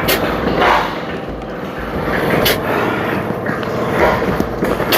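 Air-powered oil transfer pump running while pumping waste motor oil: a steady mechanical noise with a short sharp click-like puff about every two and a half seconds.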